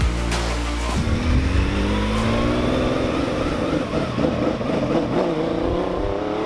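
Rebuilt 1968 Porsche 911's air-cooled flat-six engine pulling hard under load, its pitch climbing slowly and steadily for about five seconds from about a second in.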